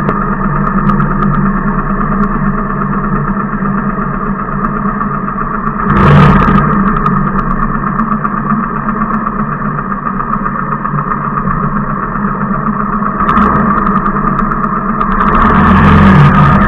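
Motorcycle engine idling steadily, with brief louder surges about six seconds in and again near the end.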